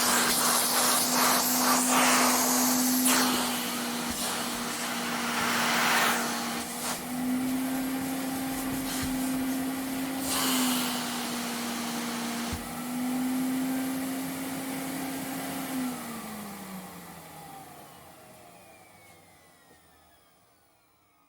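Vacuum cleaner running steadily, its motor hum shifting slightly in pitch, with surges of suction hiss as the nozzle moves. About three-quarters of the way through it is switched off and the motor winds down, falling in pitch and fading away over several seconds.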